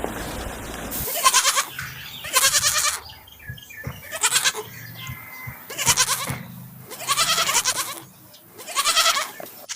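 Goat bleating: about six separate bleats, each about half a second long, coming roughly every second and a half.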